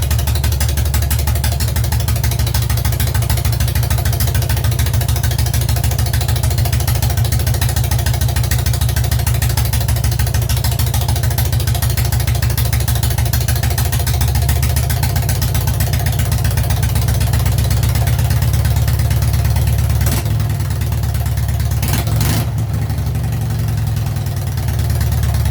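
Freshly rebuilt K-750 side-valve flat-twin motorcycle engine running steadily at idle, with a few brief changes in its note near the end.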